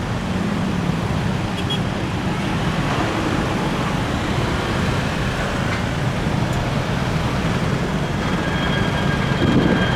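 Steady rumble of a jet airliner's engines, growing louder in the last second as a high engine whine sets in.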